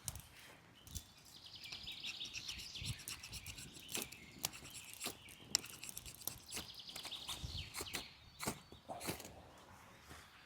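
Birds chirping through most of it, over a wood campfire giving scattered sharp crackles and snaps.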